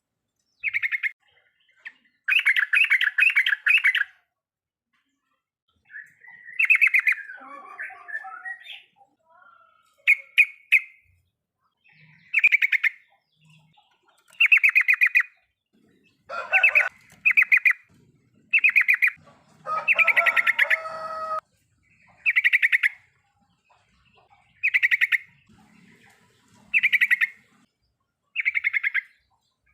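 Yellow-vented bulbul (trucukan) singing its bubbly 'riwikan' call: short rapid chattering phrases repeated about every two seconds, with a more jumbled stretch of calls about a quarter of the way in.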